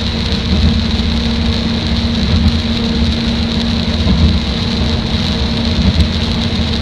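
SKR312-type diesel railcar running along the line, heard from inside: a steady engine drone mixed with the rumble of wheels on rail, with a couple of faint clicks.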